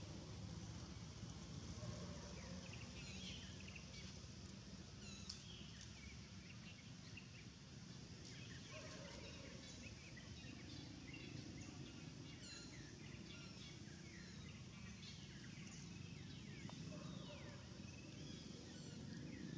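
Faint outdoor ambience of small birds chirping, with many short, high chirps scattered throughout over a low steady hum.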